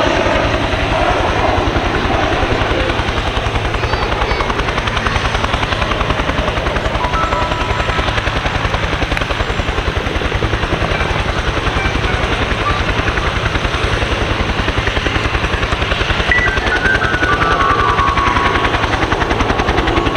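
An aircraft running at close range: a loud, steady drone with a fast, even pulse.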